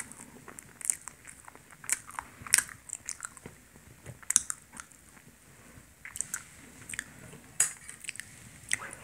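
A person biting and chewing a crusty pastry close to the microphone: irregular crisp crunches and wet mouth sounds.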